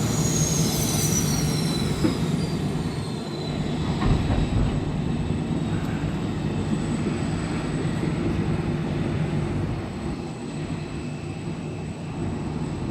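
Train running on the rails with a steady low rumble and hum. In the first couple of seconds there is high wheel squeal that slides down in pitch.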